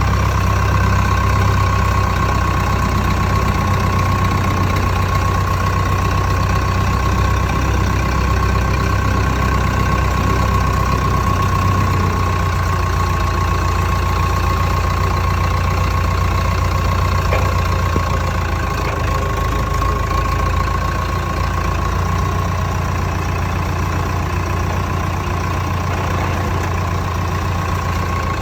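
Massey-Ferguson 188 tractor's Perkins 4.248 four-cylinder diesel engine idling steadily, with a thin steady whine over the low engine note.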